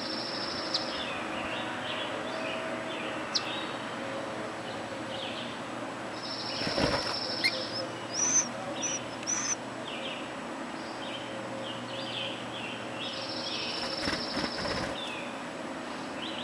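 Baby birds chirping in high, buzzy trills, with scattered shorter chirps, as a parent bird comes to feed them. A short flutter of wings comes twice, about halfway through and again near the end.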